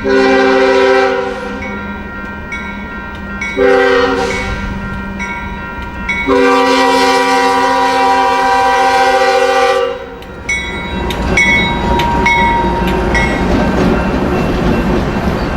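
Diesel freight locomotive air horn sounding three blasts: about a second, a short one, then a long one of nearly four seconds. Then the train passes with a steady rumble of wheels on rail and a few brief squeals.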